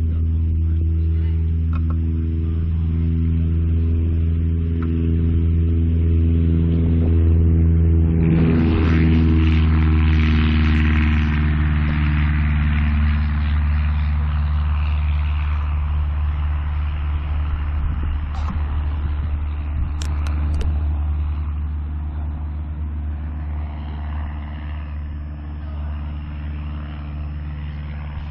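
An engine running steadily at one speed, with a rushing surge that swells about eight seconds in and fades over the next several seconds.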